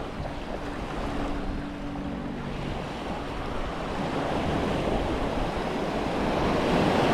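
Surf breaking and washing on the beach, the wash swelling to its loudest near the end, with wind buffeting the microphone. A faint steady low hum sits under it for the first couple of seconds.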